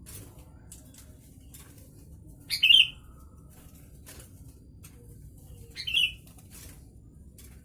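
Sooty-headed bulbul (kutilang) giving two short, loud calls a few seconds apart, each sliding slightly down in pitch. Faint ticks and rustles sound between them.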